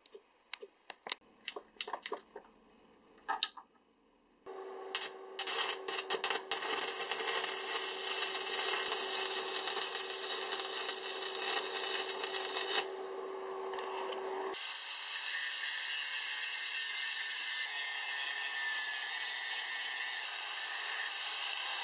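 A few sharp clicks and taps, then an electric arc welder crackling and sputtering for about ten seconds with a steady hum underneath as it welds up a crack in a steel axe poll. Then an angle grinder runs steadily, grinding the fresh weld down.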